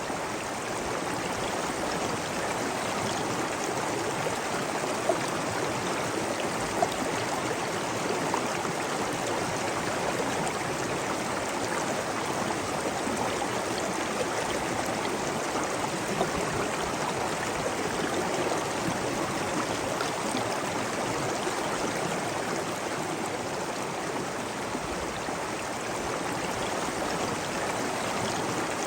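Steady rush of flowing water, like a stream running over stones, with a couple of brief sharper ticks about five and seven seconds in.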